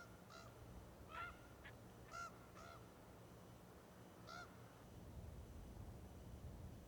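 Faint, short honking bird calls, about six of them and mostly in pairs, during the first four and a half seconds, over a low steady rumble.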